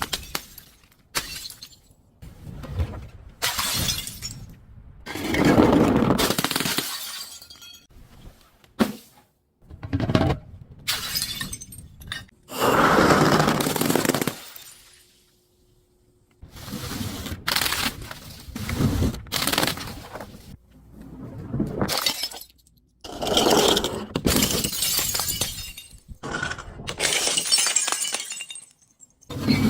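Glass bottles being crushed and shattering again and again: a run of crunching breaks, some short and sharp, others drawn out over a second or two, with a brief pause about halfway through.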